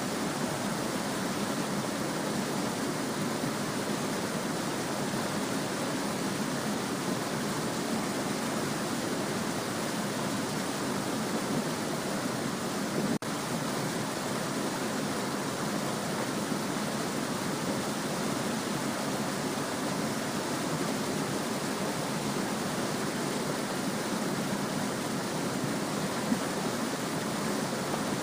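Small stream babbling and trickling steadily over stones, an even rush of water with no change, broken once by a split-second dropout about halfway through.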